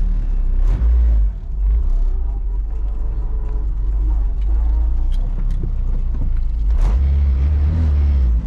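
Low, steady engine and road rumble of an Acura RSX four-cylinder heard from inside the cabin, with a couple of sharp clicks.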